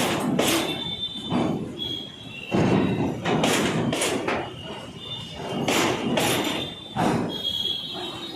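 Double-decker car-carrier goods wagons rolling past, their wheels thumping over rail joints in an uneven run of knocks, with a thin high-pitched squeal from the wheels in between.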